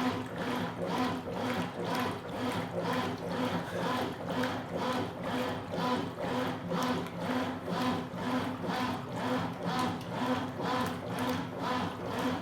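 Consul Supercargo 8 kg top-load washing machine agitating a load of towels in water: a steady motor hum with an even rhythmic swish of about two to three strokes a second as the agitator turns back and forth.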